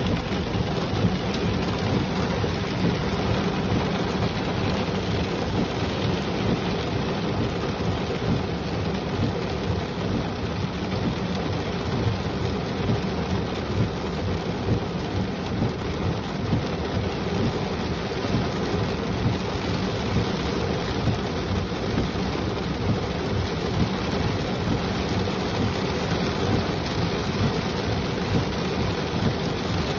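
Heavy rain beating steadily on a car's roof and windshield, heard from inside the cabin as a dense, unbroken patter with a deep rumble.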